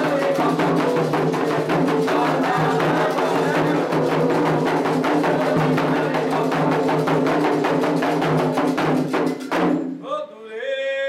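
Candomblé ritual drumming, with hand drums and a bell or wood-like percussion beating a fast, even pulse under group chanting. The drumming cuts off abruptly near the end, and a single voice sings on alone.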